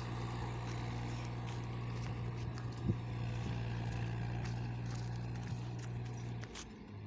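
Tractor diesel engine running steadily under load during a tug-of-war pull. Its drone stops about six and a half seconds in, with a single sharp click near three seconds.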